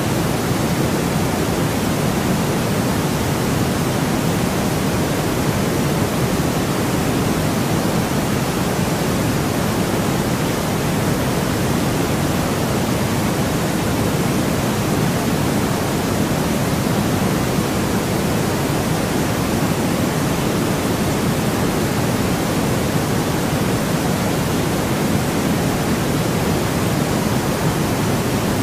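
Steady synthetic noise, an even hiss weighted toward the low end rather than flat white, unchanging throughout.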